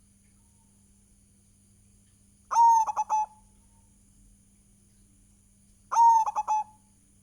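Zebra dove (perkutut) cooing: two short phrases about three and a half seconds apart, each a held note followed by a quick run of three or four clipped notes.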